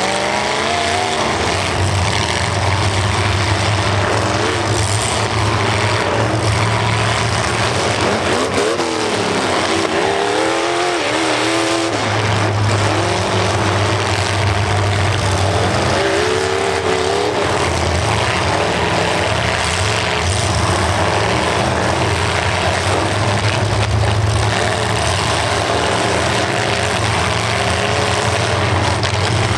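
Several demolition derby cars' engines running and revving together, their pitch rising and falling again and again over a steady engine drone.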